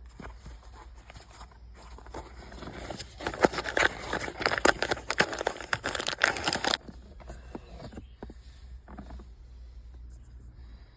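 Crinkling and rustling from hands handling parts, thickest in the middle and stopping suddenly, with lighter scattered handling noise before and after over a steady low hum.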